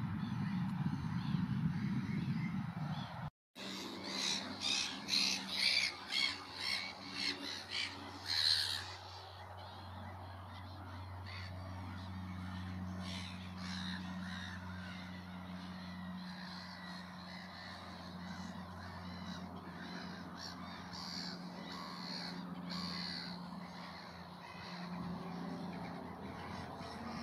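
A low rumble, cut off by a brief dropout about three seconds in, then a bird calling loudly about ten times in quick succession, roughly two calls a second, the last the loudest. After that come fainter scattered bird calls over a steady low hum.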